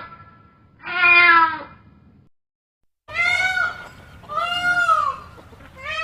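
Cats meowing: one meow about a second in, then after a short silence three more meows in quick succession, each rising and falling in pitch.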